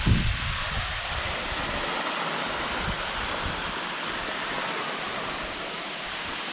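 Large waterfall's steady rush of falling water, heard up close. Low buffeting on the microphone in the first second or so.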